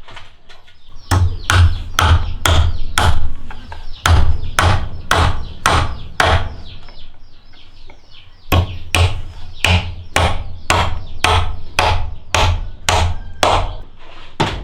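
A tool striking wood again and again, about two to three blows a second, each with a deep thud; the blows stop for about two seconds midway and then go on.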